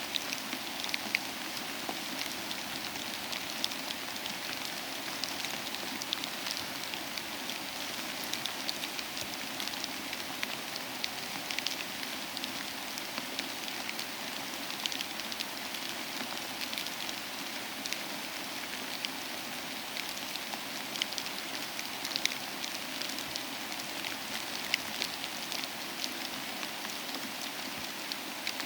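Steady soft rain falling, with scattered sharp crackles and pops from a wood fire in a fireplace.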